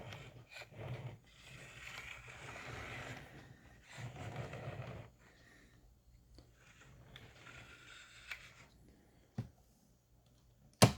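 Scraping and rubbing handling sounds from a die-cast toy truck being turned over and moved about, with a few small clicks and one sharp loud click near the end.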